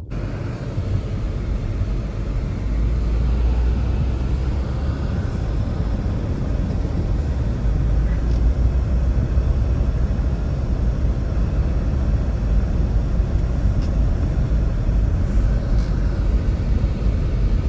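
Strong, steady blizzard wind with a heavy low rumble, starting suddenly at the beginning.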